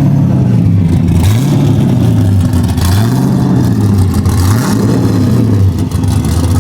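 A car engine being revved, about four blips in a row, its pitch climbing and dropping back each time, then settling to a steady lower note near the end.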